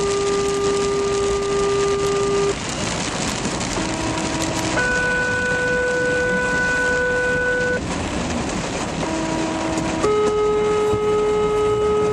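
Fire department two-tone sequential paging tones over a radio, sent to alert crews before a dispatch. Three pairs sound, each a short lower tone of about a second followed by a longer, higher tone of about three seconds, with a different long tone in each pair.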